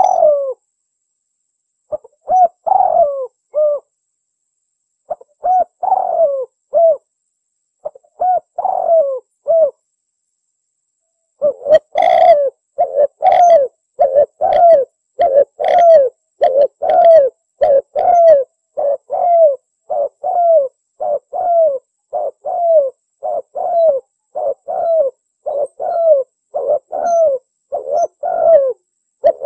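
Spotted dove (tekukur) cooing: first short three-note phrases a few seconds apart, then, from about a third of the way in, a long even run of coos at a little over one a second.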